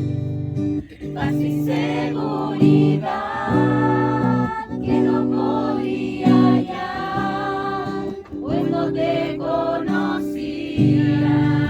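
Music: several voices singing together over a guitar.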